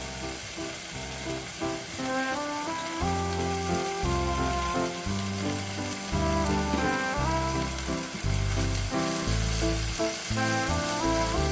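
Food sizzling in a frying pan, a steady hiss, under background music with a plucked-style melody and a stepping bass line.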